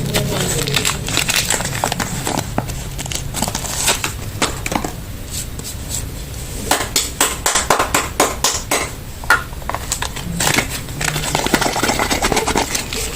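Soap packaging being unwrapped by hand: plastic and paper wrapping crinkling and crackling, with dense runs of short clicks and taps that are thickest past the middle.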